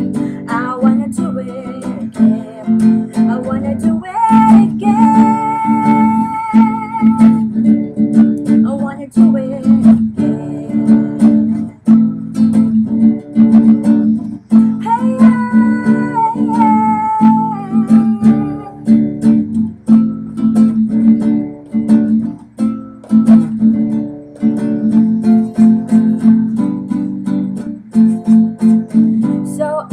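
Acoustic guitar strummed and plucked without lyrics. Two long, wavering sung notes without words come in, about four seconds in and again about fifteen seconds in.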